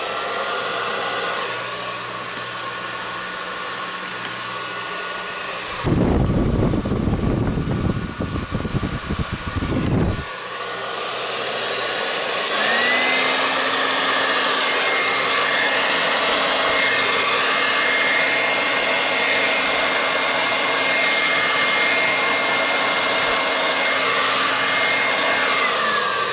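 Handheld hair dryer blowing steadily with a faint whine. About six seconds in, a gusty low rumble comes and goes for about four seconds. About twelve seconds in, the dryer gets louder with a higher whine, which winds down as it shuts off near the end.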